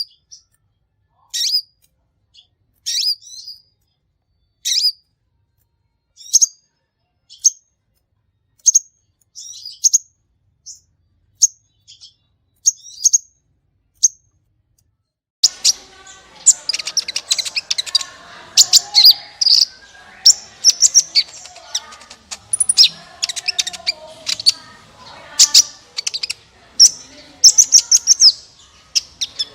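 A sunbird ('kolibri' in Indonesian bird-keeping) sings in high, sharp chirps. For about the first 15 seconds it gives single chirps about every one and a half seconds. It then breaks into a dense, fast run of chirps and twittering.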